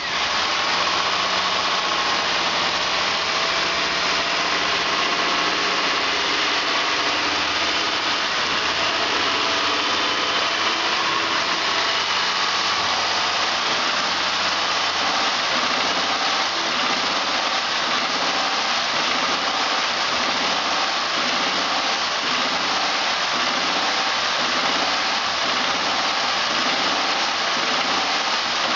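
2000 Honda Odyssey's 3.5-litre V6 engine running steadily during a test run, with a dense mechanical clatter and hum.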